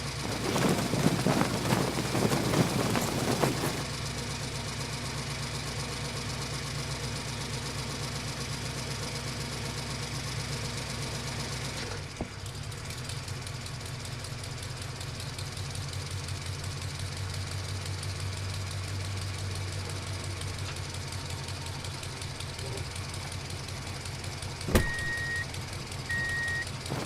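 A vehicle engine running steadily at idle with a low rhythmic rumble. It is louder and noisier for the first few seconds and changes character about twelve seconds in. Near the end there is a sharp click, then two short high beeps.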